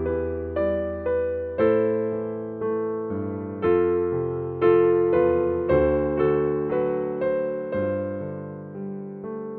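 Slow, gentle background piano music: single notes and chords struck about once or twice a second, each fading away.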